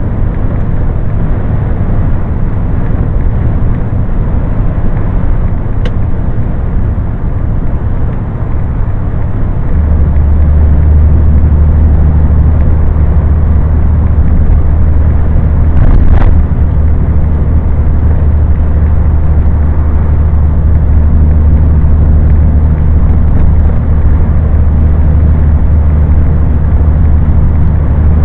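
Scania truck's diesel engine and road noise droning steadily while driving, the low drone growing louder and deeper about ten seconds in. A short sharp sound cuts through about sixteen seconds in.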